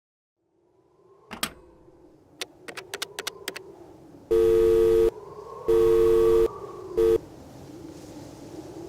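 A telephone line tone, two low notes sounding together, comes in three pulses: two long and one short. It is preceded by a handful of sharp clicks over a faint background hiss.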